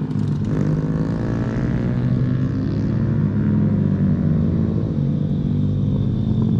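Pit bike engine running steadily at a fairly constant pitch, a loud buzzing drone.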